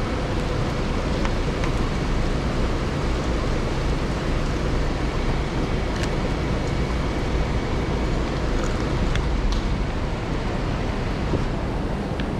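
Steady noise of heavy rain and city street traffic, with a low rumble of wind on the microphone. A few faint clicks stand out, one about halfway through and one near the end.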